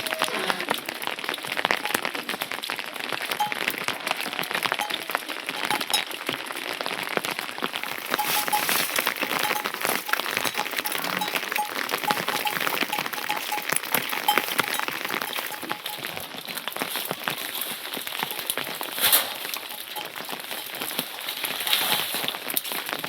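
Rain falling steadily, a dense patter of drops, with one louder sharp sound about nineteen seconds in.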